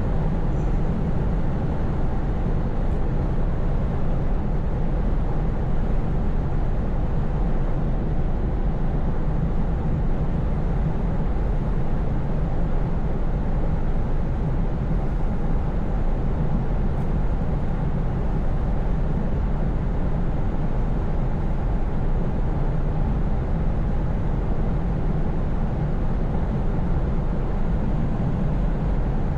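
Scania S580 truck's V8 engine running steadily at cruise with a low drone, under a constant hiss of tyre and road noise.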